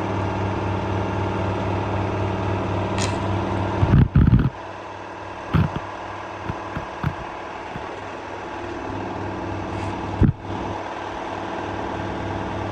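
LG F1222TD direct-drive washing machine on its final spin at full speed, a steady hum. A few loud thumps come about four seconds in, after which the hum is quieter, with scattered knocks and another thump near ten seconds.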